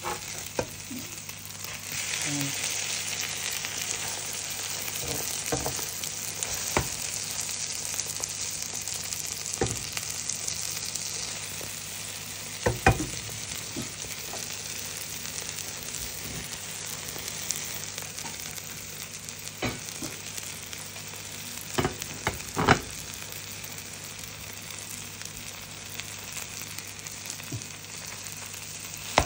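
Egg omelette with onion and tomato sizzling as it fries in a pan, just turned over to cook its other side. A metal slotted spatula scrapes and taps against the pan now and then, the loudest knocks about 13 seconds in and twice around 22 seconds.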